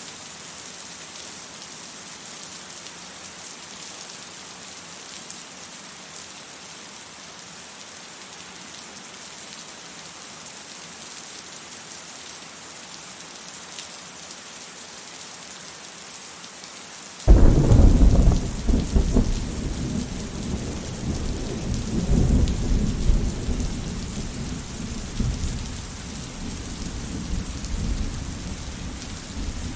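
Steady rain hissing, then thunder: a sudden loud crack about two-thirds of the way in, rolling on as a rumble that swells and fades over the following seconds.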